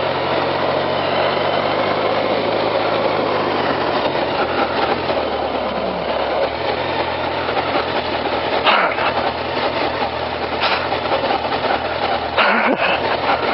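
Small vehicle engine running steadily under way, with wind noise rushing over a helmet-mounted camera. The engine note drops out briefly twice, near the middle and near the end.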